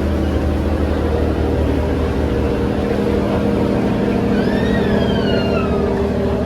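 Steady, loud drone of a river ferry's engines, a low hum made of several constant tones. A little past the middle, a short high call rises and then falls.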